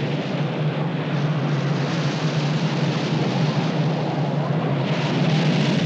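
Gale-force storm wind blowing hard and steadily, a dense rushing noise over a low drone, swelling a little near the end.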